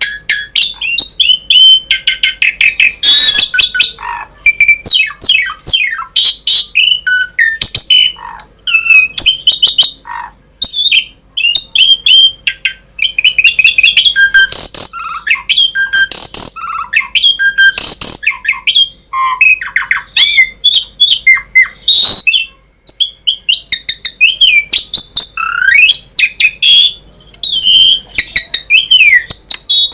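Asian pied starling (jalak suren) in full song: a rapid, unbroken run of varied whistles, rising and falling glides, harsh squawks, chirps and clicks.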